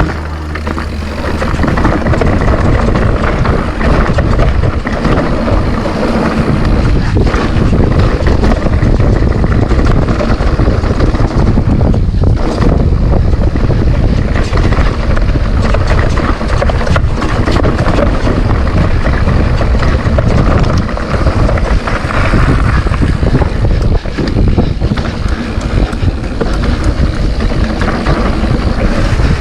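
Mountain bike descending a dirt trail: wind buffeting the camera microphone over the tyres' rolling noise and a constant rattle of small knocks from the bike over rough ground.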